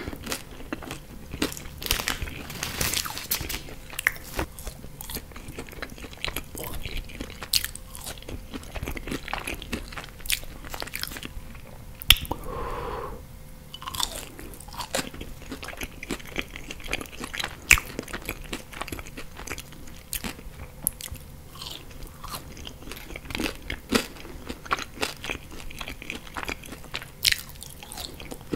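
Close-miked chewing and crunching of French fries dipped in sauce, a dense run of sharp, wet mouth clicks and smacks, with fingers sucked clean of sauce.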